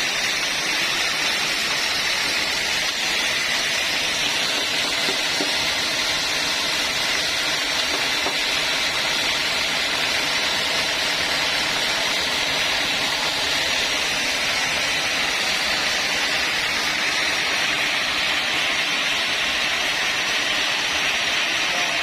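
Sawmill log saw running with a steady hiss.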